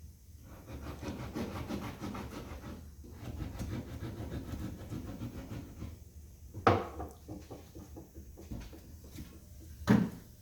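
Rough scraping and rubbing for several seconds, then two sharp knocks, one after about six and a half seconds and a louder one near the end.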